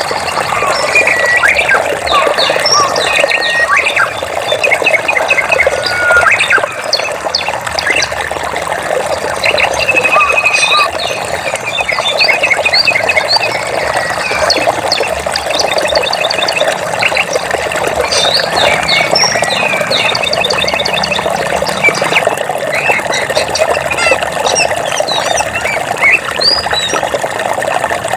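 Many birds chirping and calling, with quick trills here and there, over a steady rush of flowing water.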